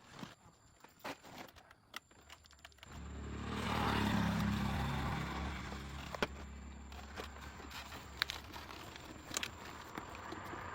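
Light clicks and scrapes, then about three seconds in a motor vehicle engine's low running sound comes up, loudest a second later, then settling to a steady run with a few sharp clicks over it.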